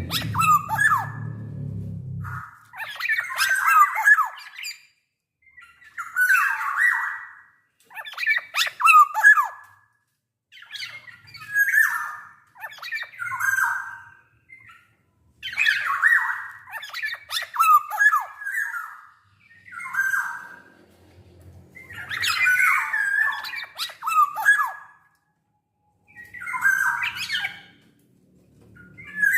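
Black-naped oriole singing in a long series of short phrases, each a few whistled glides mixed with harsh, grating notes, separated by brief pauses. A low hum is heard underneath at the start.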